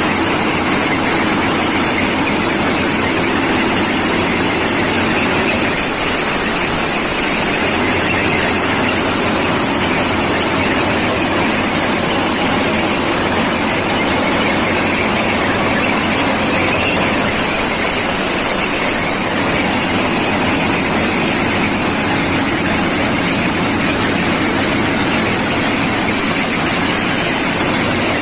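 Indian Railways ballast cleaning machine (BCM) at work, its engine and machinery running with a loud, steady, unbroken noise.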